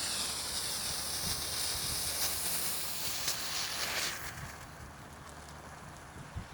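Great Grizzly hollow paper smoke ball burning with a steady hiss as it pours out smoke, dying away a little after four seconds in. Low wind rumble underneath.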